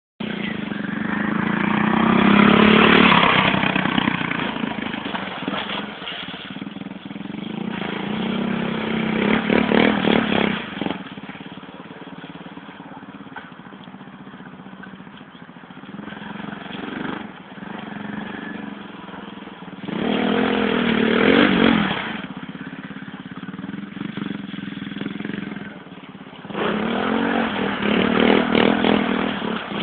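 Dirt bike engine revving hard in four loud surges, each rising and falling in pitch, with quieter running in between.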